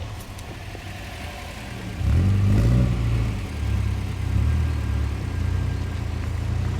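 Car engine running with a low rumble that grows sharply louder about two seconds in and stays loud, wavering as the throttle changes.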